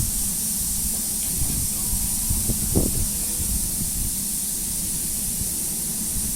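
Steam locomotive standing while it takes water from a hose: a steady hiss over a low rumble, with a couple of short soft knocks a little after one second and near three seconds in.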